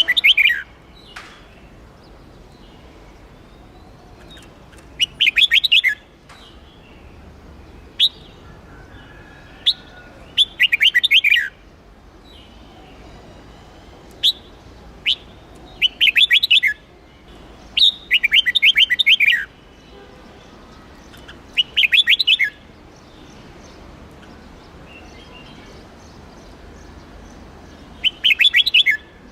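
Red-whiskered bulbul singing: short bursts of quick, warbling notes repeated every few seconds, with single sharp call notes between them.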